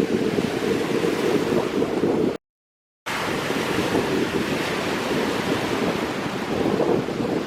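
Wind buffeting the microphone over the wash of surf on a beach, a steady noisy rumble. The sound cuts out completely for about half a second near two and a half seconds in, then resumes.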